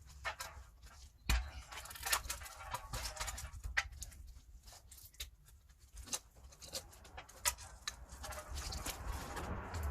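Scattered clinks and knocks of metal tools and parts being handled while an engine is worked back into place, with a low rumble building near the end.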